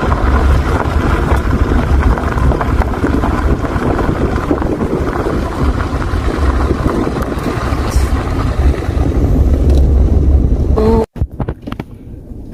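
Wind buffeting the microphone over road noise inside a moving car, a loud, dense low rumble that gusts unevenly and cuts off abruptly near the end.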